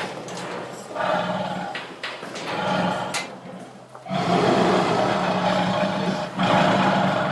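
Tiger roaring and growling in a series of rough calls, the longest starting about four seconds in.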